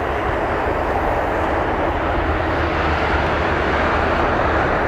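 Boeing 787-8 jet engines at takeoff thrust during the takeoff and climb-out, a steady roar with a deep rumble.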